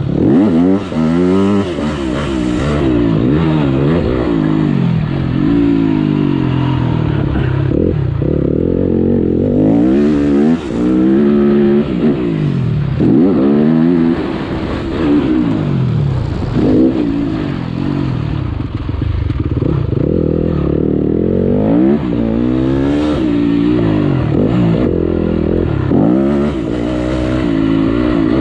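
Motocross bike engine revving hard, its pitch climbing again and again and dropping back as the bike accelerates, shifts and eases off the throttle.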